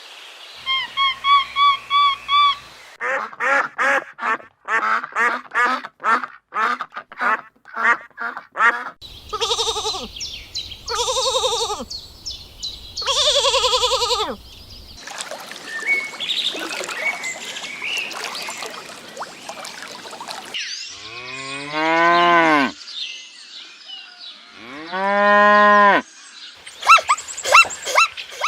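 Farm animals calling one after another: a string of short calls, then three loud calls that fall in pitch, and later two long drawn-out calls.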